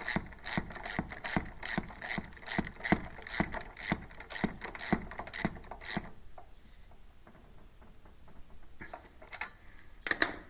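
Ratchet wrench clicking in an even rhythm, a little over two clicks a second, as a new spark plug is snugged down in a 24 hp Kohler engine. The clicking stops about six seconds in, and one louder click comes near the end.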